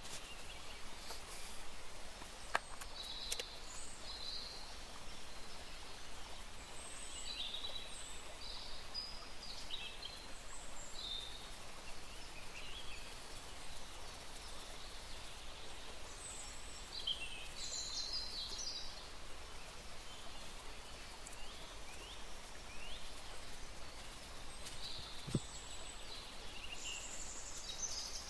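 Small birds chirping on and off in short high calls and little pitch glides, over a steady low background hum.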